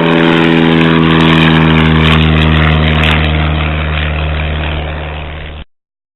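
Light propeller airplane's piston engine droning loudly as the plane passes close by, its pitch sinking slowly as it goes. The sound cuts off abruptly near the end.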